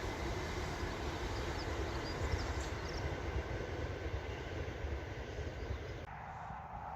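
Steady rumble of a passing train, which drops away suddenly about six seconds in.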